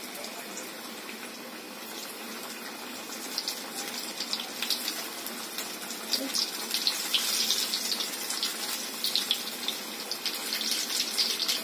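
Besan-battered brinjal slices sizzling and spattering in hot oil in a frying pan, the crackle growing louder a few seconds in as more slices go into the oil.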